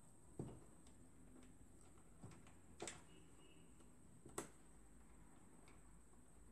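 Near silence broken by a few faint, scattered clicks and taps from the Xerox 3370 fuser unit being handled on the bench.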